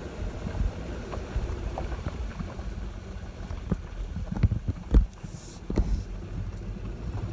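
Pickup truck carrying a truck camper driving on a rough dirt road: a steady low rumble of engine and tyres, with a run of knocks and thumps in the second half, the loudest about five seconds in, as the rig jolts over bumps.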